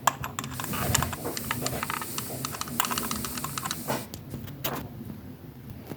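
Rapid clicking of computer-keyboard typing that stops about four seconds in, followed by a couple of separate louder clicks, over a low steady hum.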